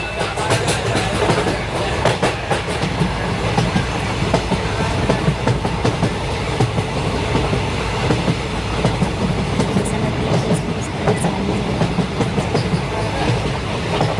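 Train running along the track: steady rumble with the clickety-clack of wheels over rail joints.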